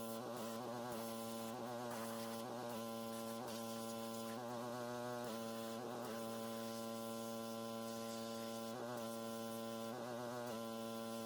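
Pressure washer running, a steady buzzing hum whose pitch wavers briefly every second or so.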